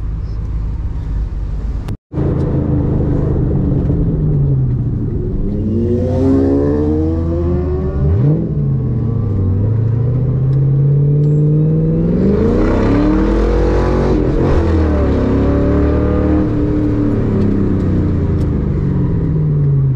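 Car engine pulling through the gears, heard from inside the car. The engine note climbs, drops sharply at a gear change about eight seconds in, climbs again to a peak past twelve seconds, then falls away as the car eases off. The sound cuts out briefly about two seconds in.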